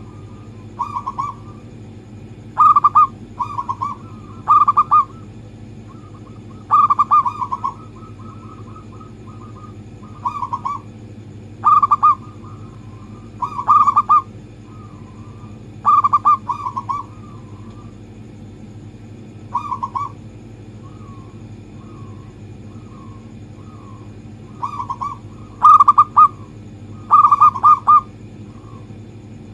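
Zebra dove (perkutut) cooing: short phrases of rapid rolling coos, one every second or two with a few longer pauses, over a steady low hum. It is a lure call for getting other zebra doves to sing.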